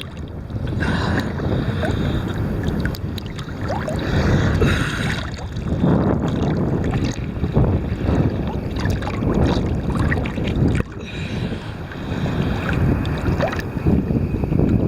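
Choppy seawater sloshing and splashing close to the microphone, with wind buffeting it; the level rises and falls irregularly with the small waves.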